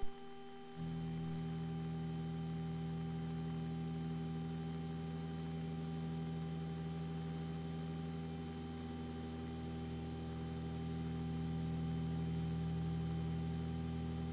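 Steady low drone of the Piper Aztec's twin piston engines in the climb, heard faintly and without change in pitch. It starts abruptly about a second in, over a fainter steady electrical hum.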